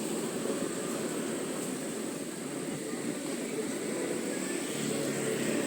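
Motor scooter riding along a city street: steady engine and road rumble with wind noise, growing louder near the end, with a thin steady high whine above it.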